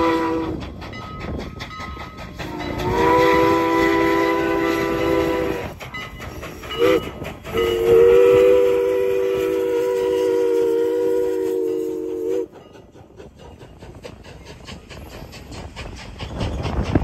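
Steam locomotive No. 89's chime whistle blowing the grade-crossing signal, long, long, short, long: the first blast ends just in, the last long blast cuts off about twelve and a half seconds in. Under it the train's running sound keeps up a fast regular beat.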